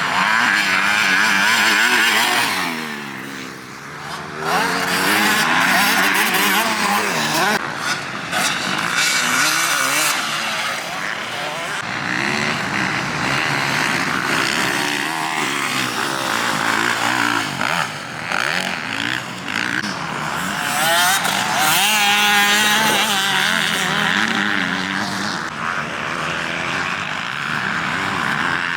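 Motocross dirt bike engines revving hard, their pitch repeatedly rising and falling, with more than one engine heard at once; the sound dips briefly about three seconds in.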